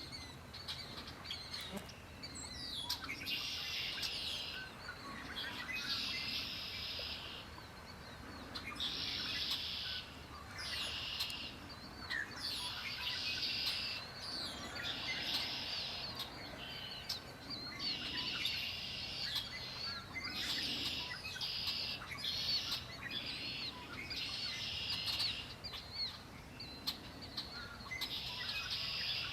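Songbirds singing: one bird repeats a dense, high song phrase of about a second every one to two seconds, with short chirps from other birds between phrases.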